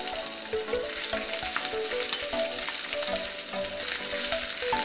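Mashed boiled potatoes sizzling and crackling in hot oil in a nonstick frying pan, with a spatula stirring and breaking them up.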